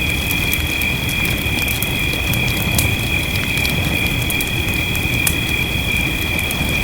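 Wood fire crackling, with irregular sharp pops, over a steady shrill chorus of night frogs or insects and a low rush of rain.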